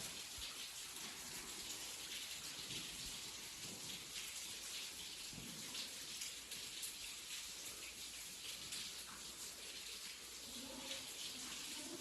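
Falling water: a steady patter of fine drops.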